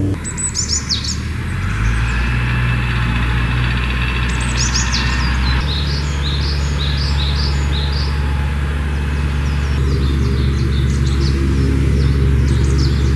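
Birds chirping in short clusters of quick, falling high notes, about a second in, around four to six seconds in, and again near the end. Under them runs a steady low hum.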